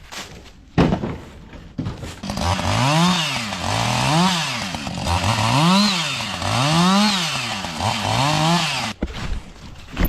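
Two-stroke chainsaw revved up and down about six times, its engine pitch rising and falling with each squeeze of the throttle, then cutting off near the end. A single loud knock comes about a second in.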